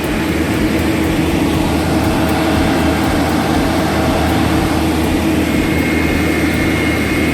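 Heavy machine engine running steadily, with a constant whine. A thin high whine joins near the end.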